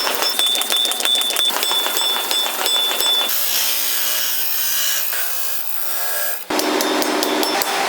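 Steel being worked by hand with tools: rapid scraping and rasping strokes with a high metallic ring. The sound changes about three seconds in to a smoother, steady noise with a low hum, and the clicking strokes return near the end.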